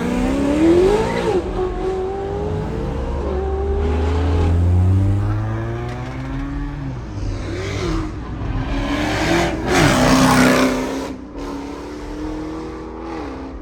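Car engines revving and accelerating, their pitch climbing and dropping again several times. A louder rushing burst of noise comes about nine to ten seconds in.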